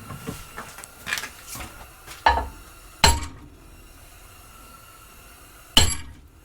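Several sharp metal knocks on a steel plate that is being bent, each ringing briefly, with a few lighter taps before them; the loudest come about two, three and six seconds in.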